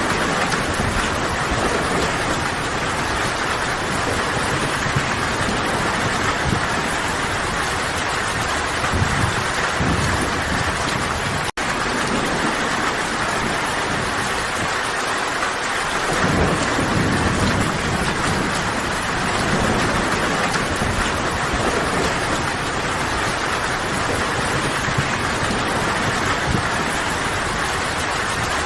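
Steady heavy rain falling, with low rolling rumbles of distant thunder swelling and fading now and then. The sound cuts out for an instant about a third of the way in.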